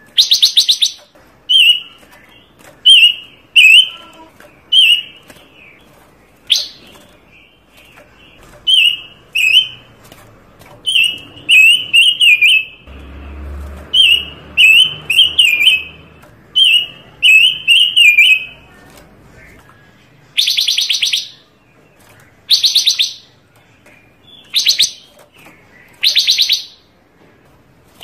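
A panca warna songbird singing a varied song: short phrases of quick warbled chirps repeated every second or so. Loud, fast, rattling trills follow in the later part. There is a soft low thump a little before halfway.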